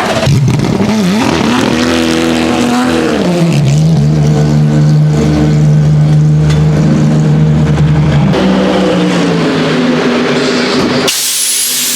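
Racing car engine at speed on a circuit. The pitch dips and climbs over the first few seconds, then holds steady for about four seconds before stepping up with a gear change. A sudden change near the end brings a hiss in place of the engine.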